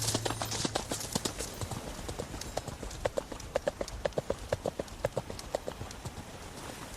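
An irregular run of light, sharp knocks, several a second, dying away near the end.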